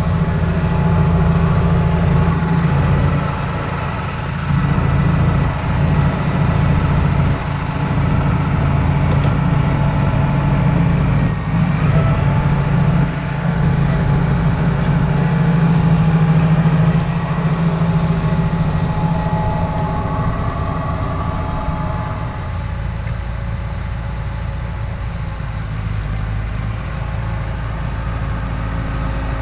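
Massey Ferguson 5455 tractor's four-cylinder diesel engine running steadily, with a strong low hum. It grows somewhat quieter about two-thirds of the way through.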